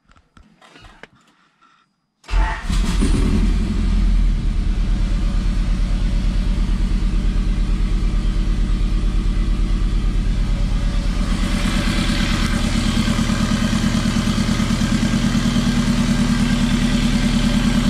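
Turbocharged Honda H22A four-cylinder in a third-gen Prelude starting for the first time: it fires about two seconds in and settles into a steady idle near 1000 rpm. It runs lean on the base map, with no charge piping yet fitted to the turbo.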